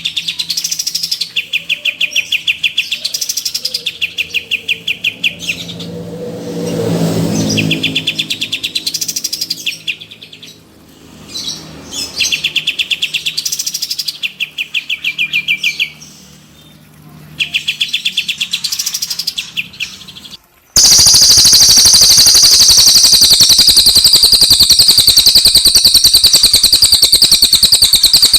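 Cililin and kapas tembak cage birds singing: rapid rolling trills, each about two to three seconds long, repeated with short gaps. About 21 seconds in, a much louder, unbroken high trill takes over. A low rumble swells and fades around seven seconds in.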